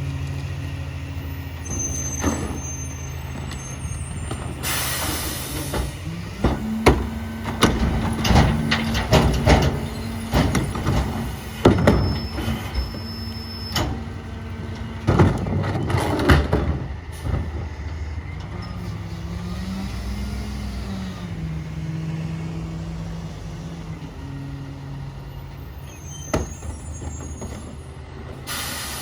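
Peterbilt 348 rear-load garbage truck with an EZ-Pack Goliath body running at idle: an air-brake hiss about five seconds in, then a long run of clattering knocks and bangs as refuse is loaded into the hopper. Later the diesel engine revs up and back down, and another air hiss comes near the end.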